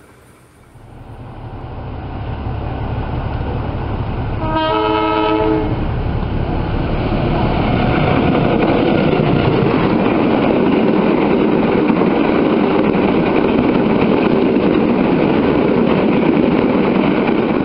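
Diesel locomotive approaching with a rising rumble, sounding a chord horn once for about a second and a half about four seconds in. The locomotive and its passenger coaches then pass close at speed, with loud, steady wheel-on-rail noise to the end.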